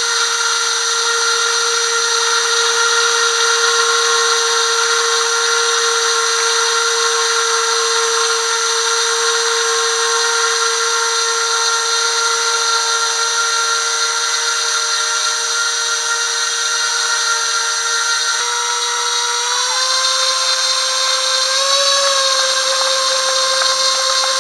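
Small electric motors whining steadily at a constant pitch, with several high tones over the main hum. The pitch steps up slightly near the end and briefly rises again shortly after.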